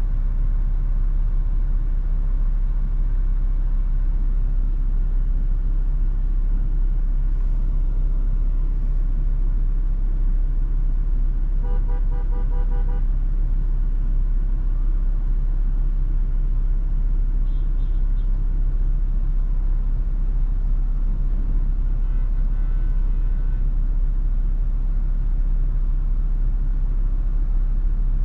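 Steady low road rumble of a Toyota FJ Cruiser driving, with a car horn sounding for about a second near the middle and two fainter, shorter tones later on.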